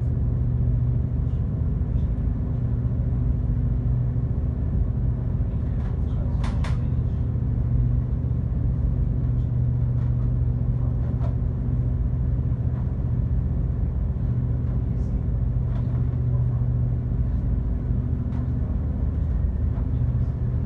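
Passenger ferry's engines droning steadily with a constant low hum, heard on board, with a few faint knocks, the clearest about six seconds in.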